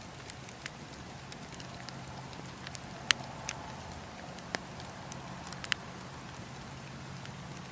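Bonfire crackling: irregular sharp pops and snaps of burning wood, the loudest about three seconds in, over a steady low background.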